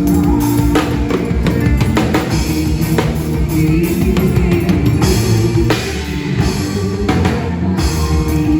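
Band playing instrumental music with a drum kit and guitar, the drums hitting at a steady beat.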